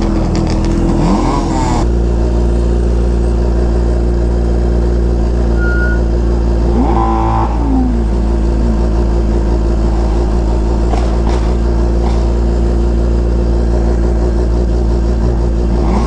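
A vehicle engine running at a steady speed with a constant deep drone, which grows heavier about two seconds in and then holds unchanged.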